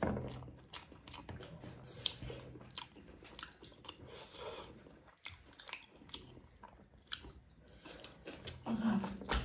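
People chewing and biting food close to the microphone: irregular small clicks and mouth sounds, with a voice starting briefly near the end.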